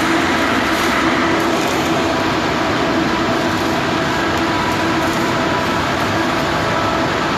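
Electric arc welding inside a large steel tank during repair work: a loud, steady noise with a faint hum under it.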